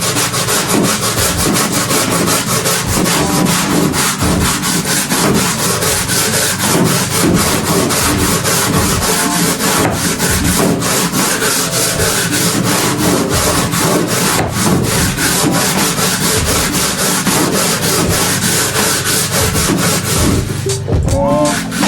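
Brush scrubbing a floor in rapid back-and-forth strokes, with a brief pause near the end.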